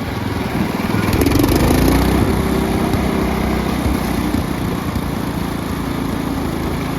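Cub Cadet lawn tractor engine running, swelling louder about a second in and then running steadily.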